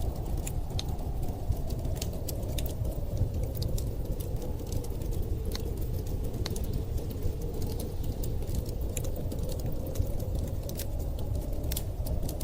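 Wood fire crackling with frequent sharp pops, over a steady low rumble and a slowly wavering howl of blizzard wind.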